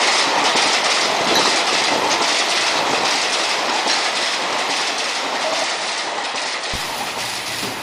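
Model trains running on the track: a steady rattling clatter of wheels and coaches on the rails that slowly fades, with a single short knock near the end.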